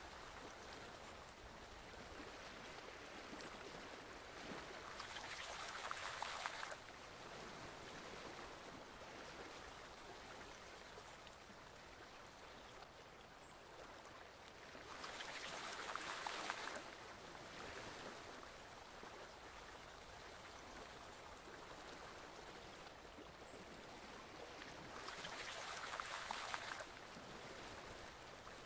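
Flowing stream water, a steady rush. Three times, about ten seconds apart, it swells louder for a second or two and then drops back suddenly.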